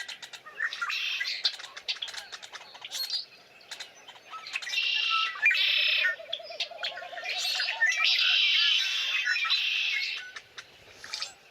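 Several birds chirping and calling over one another, with two loud stretches of dense, busy song about five and eight seconds in and a lower warbling trill between them.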